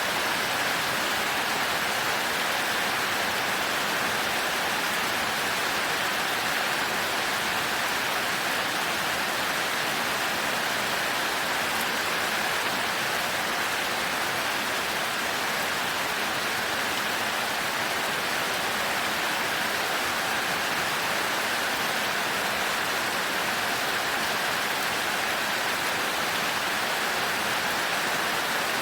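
Heavy rain falling steadily, a continuous even hiss with no thunder.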